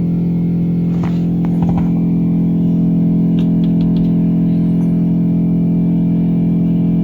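Steady electrical buzz from a Renault Koleos's windscreen wiper motor on the driver's side, with a few faint clicks in the first half. The motor has failed and does not run, but it draws current and hums after the wiper switch is touched, which drains the battery.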